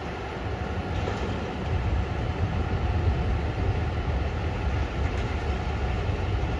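Heavy mining machinery working: an electric rope shovel loading coal into a 190-tonne haul truck, heard as a continuous deep rumble without distinct knocks.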